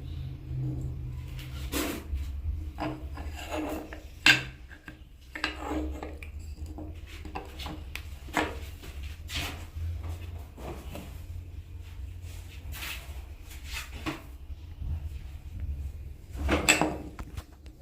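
Irregular wooden knocks, scrapes and rubbing from hand woodworking on a wooden scoop, with one sharp knock about four seconds in and a louder scrape near the end, over a steady low hum.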